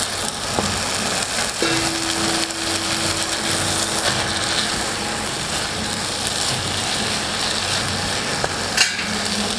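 Green chutney masala sizzling steadily in oil in a nonstick kadhai, fried to the stage where the oil separates, while boiled fusilli pasta is tipped in and stirred through with a silicone spatula.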